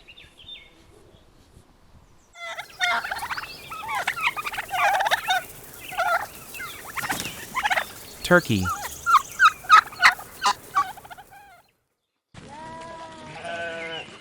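Turkey gobbling over and over, a dense run of short, rattling calls starting a couple of seconds in and stopping shortly before the end.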